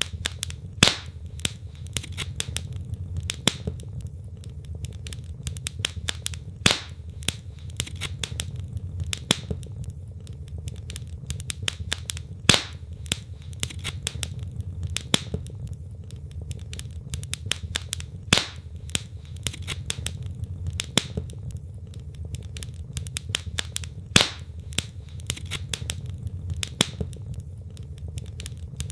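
Wood fire in a fireplace crackling steadily: many small irregular snaps of burning logs over a low, steady rumble, with a sharper, louder pop about every six seconds.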